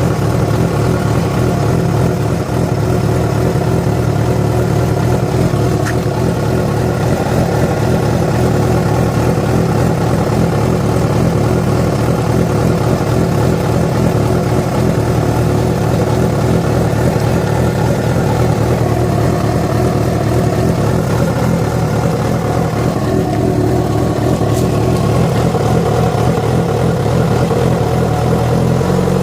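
Yamaha FZ6's inline-four engine running steadily at constant speed, giving the strange noise that began after the bike was ridden about 70 km on two cylinders because of a failed ignition coil connector.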